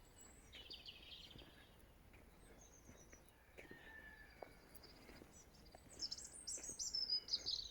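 Wild songbirds chirping faintly in open countryside, with a short burst of high calls about a second in and a livelier run of quick, falling chirps near the end.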